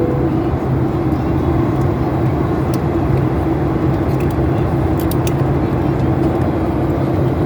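Steady in-flight cabin drone of a Boeing airliner: engine hum and rushing airflow holding an even level, with a few faint ticks near the middle.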